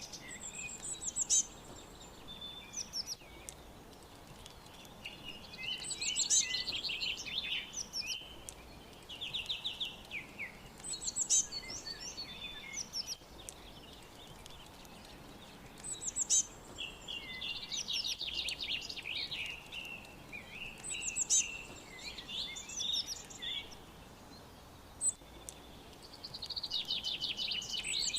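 Songbirds singing, one song phrase of quick trills and high chirps repeating about every five seconds over a faint steady background hiss.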